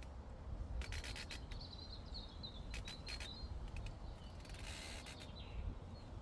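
Llamas grazing: three short bursts of rapid crackling rasps, about two seconds apart, as grass is cropped. A bird chirps in the background for a couple of seconds, over a steady low rumble of breeze.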